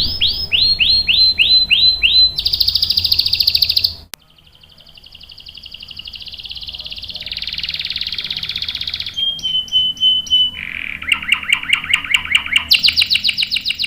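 Canary singing a long rolling song. First comes a run of quick downward-sweeping notes and a fast trill, which breaks off suddenly about four seconds in. Then a long trill swells in loudness and switches through several rapid note patterns.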